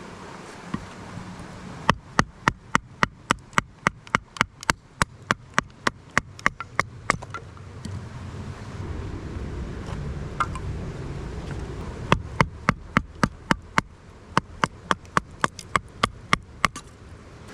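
Rapid, even tapping, about five sharp knocks a second, in two runs of several seconds each with a pause between them.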